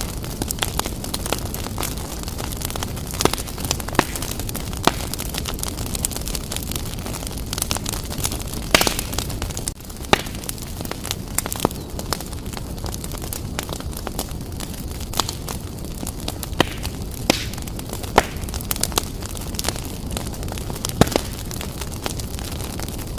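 Fire burning briskly in a fireplace: a steady low rush of flames with frequent sharp crackles and pops, a few of them louder.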